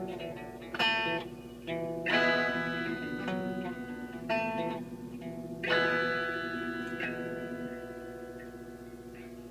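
Instrumental guitar passage between sung lines of a song: plucked notes and chords ring out one after another, and a final chord about six seconds in is left to fade slowly.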